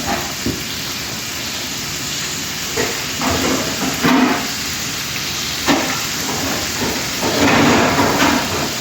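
Chicken pieces deep-frying in a pan of hot oil, a steady sizzling hiss, with a few short louder bursts.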